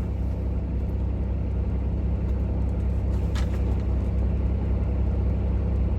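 Peterbilt semi-truck's diesel engine idling steadily with a low, even rumble. A short rustle about three seconds in.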